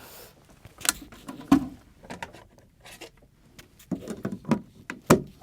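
A scattered run of sharp clicks and knocks, the loudest about a second and a half in, from handling a small canister gas brew-kit stove and its pot. The stove is not yet running.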